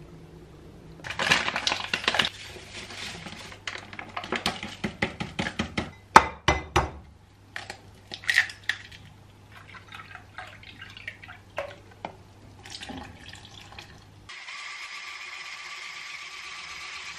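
Kitchen dishes and utensils clattering and clinking as they are handled, in quick irregular knocks. Then a steady rush of running water starts about fourteen seconds in.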